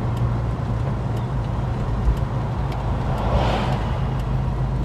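Holden HK car driving along, its engine running steadily under road noise, heard from inside the cabin. A brief rush of noise swells and fades about three seconds in.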